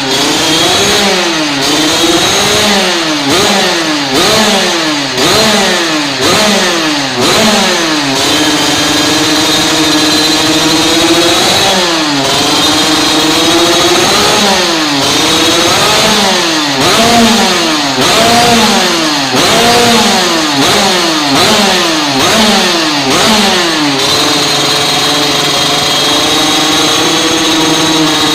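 KTM 50 cc two-stroke motorcycle engine with a B-Pazz aftermarket exhaust, revved over and over in quick blips, roughly one a second, with the pitch rising sharply and dropping back each time. It is held at a steady speed for a few seconds about eight seconds in, and again near the end.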